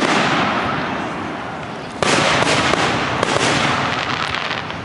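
Aerial fireworks bursting: a boom fading slowly over the first two seconds, then a second loud burst about two seconds in, followed by a scatter of sharp crackling pops as it fades.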